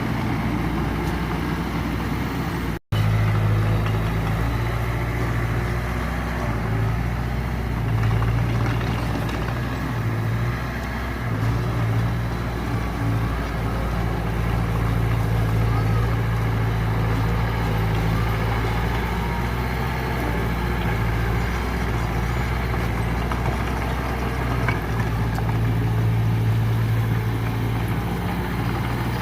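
Diesel engine of a small crawler bulldozer running steadily, a low steady drone. The sound drops out for a moment about three seconds in.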